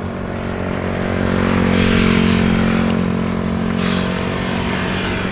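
A motor vehicle's engine running close by, a steady hum that swells about two seconds in and then eases off a little, as it passes alongside on the road.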